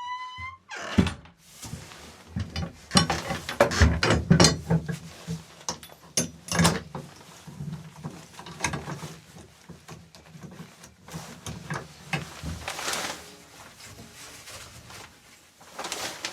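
Irregular clicks, knocks and rattles of objects being handled, busiest in the first half and quieter toward the end.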